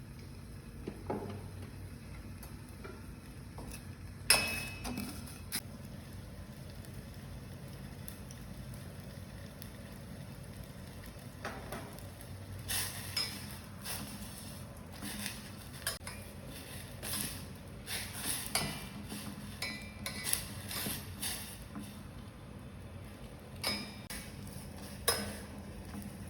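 Scattered light clinks and knocks of small hard objects being handled, with one sharp knock about four seconds in and a busier run of clinks in the second half.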